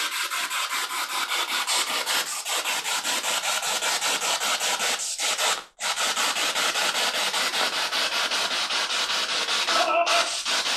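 Spirit box sweeping through radio frequencies: steady hissing static chopped into a rapid, even stutter several times a second. It cuts out for an instant a little past halfway, and a brief snatch of broadcast sound breaks through near the end.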